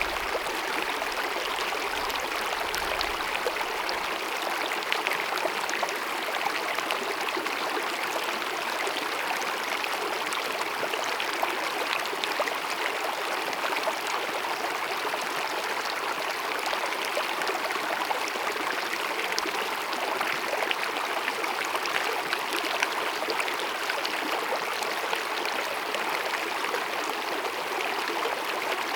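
Small glacier-fed mountain meadow stream babbling over rocks: a steady, even rush of running water with a scatter of small splashes and gurgles.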